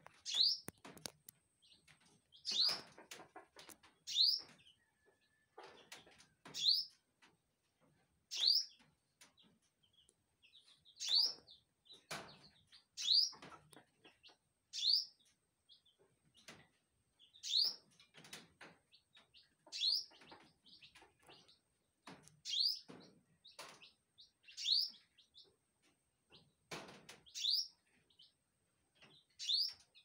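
A small bird calling over and over: a short, sharply rising chirp repeated about every two seconds.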